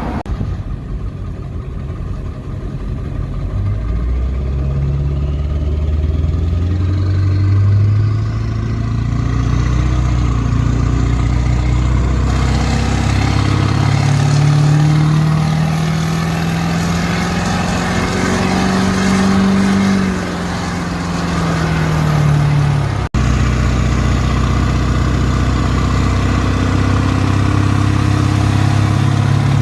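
Turbocharged diesel pickup engine revving up and running, with a high turbo whistle that climbs and then falls back over several seconds. The sound drops out for an instant past the middle, then the engine runs steadily.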